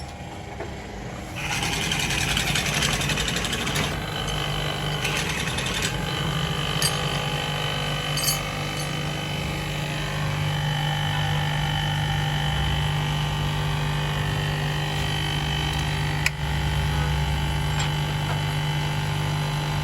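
A motor starts up about a second in and runs steadily with an even hum.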